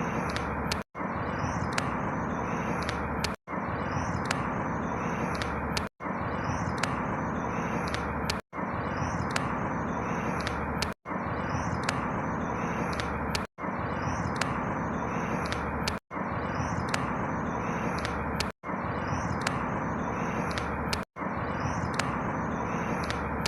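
Outdoor ambience: a steady rushing noise with faint high chirps. It is a short clip looped about every two and a half seconds, and each repeat is cut by a brief dropout to silence.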